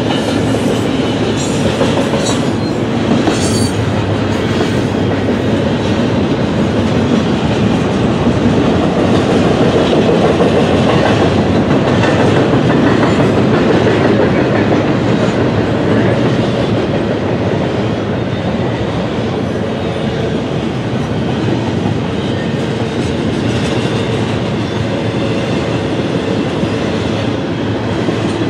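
Double-stack intermodal container train rolling past at steady speed: a continuous rumble and clatter of the well cars' wheels on the rails, with some sharp clicks in the first few seconds and a slight swell in loudness about halfway through.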